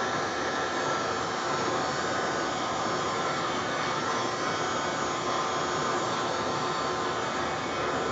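Small hand-held electric air blower running steadily, blowing wet pour paint across the canvas in a Dutch pour.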